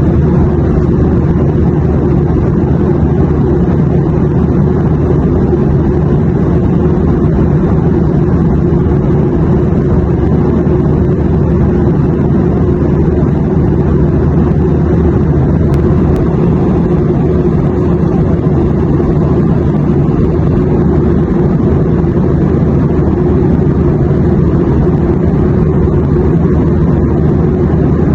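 Steady airplane cabin noise in flight: an even, deep rumble with a fainter hiss above it, unchanging throughout.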